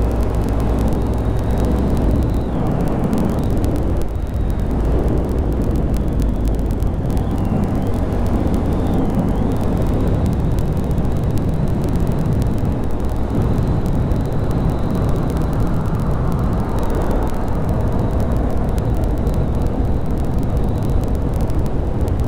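Honda Grom 125's single-cylinder four-stroke engine running steadily while the motorcycle is ridden, with a continuous rush of noise.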